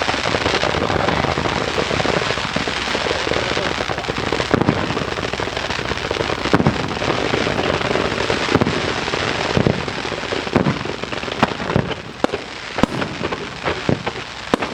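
Fireworks bursting in a dense, unbroken barrage with booms through it. About ten seconds in it thins to separate sharp bangs.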